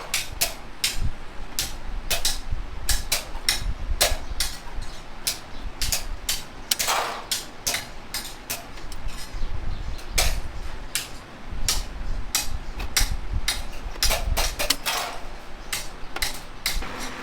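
Hand hammer striking sheet metal in an irregular run of sharp blows, two or three a second, some leaving a short metallic ring.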